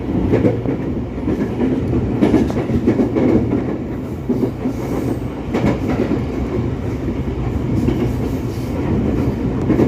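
Electric commuter train running, heard from inside the carriage: a steady rumble from the wheels and running gear. A few sharp clacks sound as the wheels cross rail joints.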